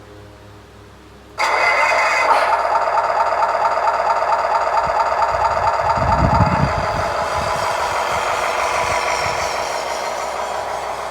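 Simulated diesel semi-truck engine sound from the RC tractor truck's sound unit, starting abruptly about a second and a half in and running on, with a deeper rumble around the middle and gradually quieter toward the end.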